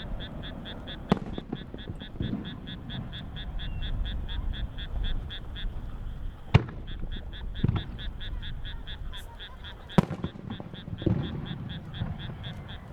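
Aerial firework shells bursting: sharp bangs every few seconds, three of them loudest, with a low rumble between. Through it runs a high, rapid chirping, about six pulses a second.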